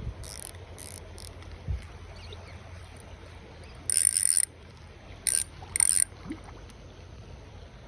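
Fishing reel ratcheting in three short buzzing bursts, about four seconds in and twice more a second or two later, while a hooked carp is on the line. A steady low hum runs underneath.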